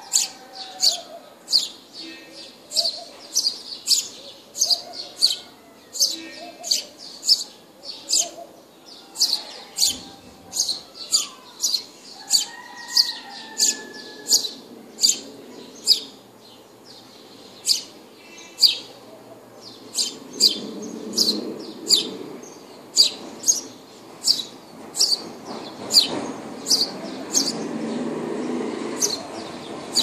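Small bird chirping over and over, short sharp high chirps about one and a half a second. A low hazy background noise swells in during the last third.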